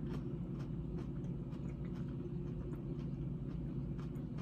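Quiet, irregular wet clicks of someone chewing a mouthful of salad, over a steady low background hum.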